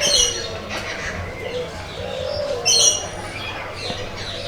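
A mix of aviary birds calling: many short chirps throughout, with two loud short calls, one right at the start and one near three seconds in.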